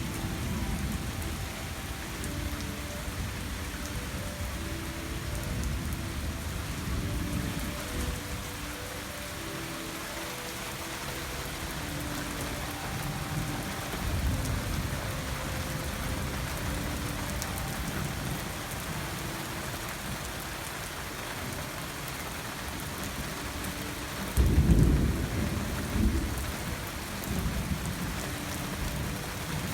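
Thunderstorm: steady heavy rain with thunder rumbling several times. The loudest thunder comes about three-quarters of the way through.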